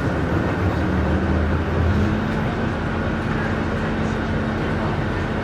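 Scania K310IB bus's diesel engine running steadily, a low drone with road noise.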